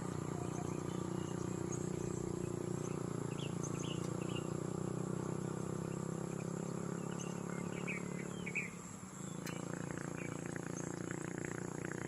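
Domestic pigeons cooing, a continuous low drone that dips briefly about nine seconds in, with a few faint short high chirps over it.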